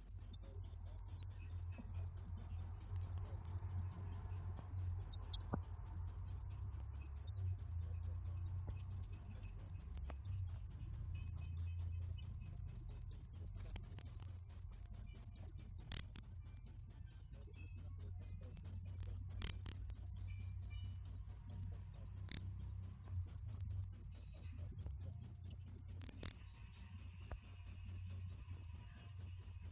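A cricket chirping steadily: short, high-pitched chirps repeated evenly at about three a second without a break.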